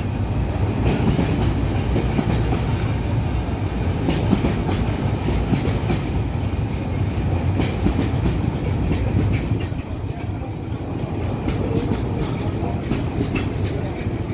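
Train running on the track: a steady low rumble with irregular sharp clicks from the wheels.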